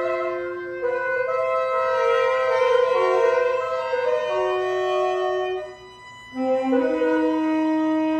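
Saxophones in free-improvised ensemble playing, holding long overlapping notes that shift in pitch against one another, with a brief near-pause about six seconds in.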